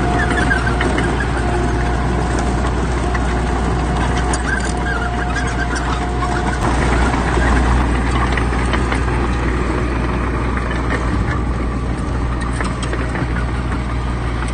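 Heavy diesel earthmoving machine running steadily, with a thin whine over the engine that stops about halfway through and some metallic clanking.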